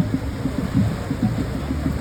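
Wind buffeting the microphone: an irregular low rumble of uneven thumps.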